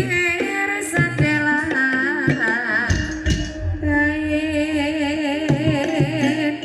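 Live Banyumasan ebeg music: a singer holding long notes with wide vibrato over gamelan instruments and hand-drum (kendang) strokes.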